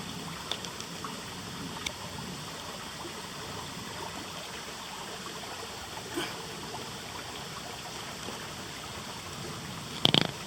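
Steady rush of a running rainforest stream, with a few faint clicks and one sharp knock near the end.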